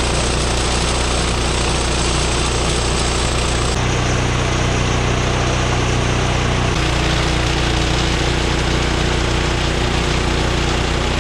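Woodland Mills HM126 portable bandsaw mill running at a steady high speed, its small gasoline engine driving the new blade through a large cherry log on a milling pass. The tone shifts slightly twice, about four and seven seconds in.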